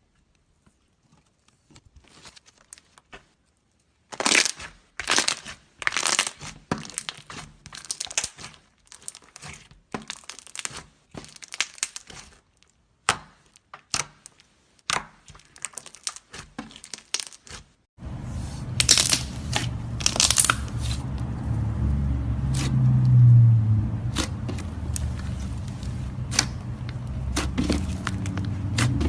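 Slime being kneaded and mixed by hand: a dense run of irregular sticky crackles and pops. About 18 seconds in, the sound cuts to a different take with a steady low hum behind the crackling.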